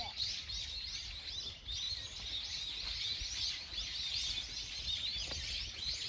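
Many small birds chirping in the trees, a dense, continuous chatter of quick, high arched notes, over a low rumble.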